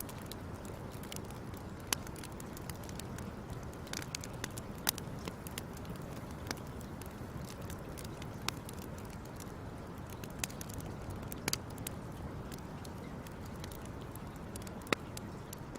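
Wood fire crackling: irregular sharp pops, a few every second or two, over a steady low rush of the fire.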